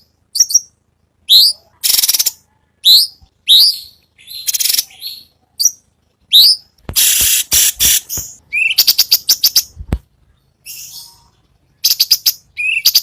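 Cucak cungkok singing in a loud recorded song series. Short, sharp notes sweep upward and repeat about once a second. Around the middle and again near the end they give way to fast rattling trills.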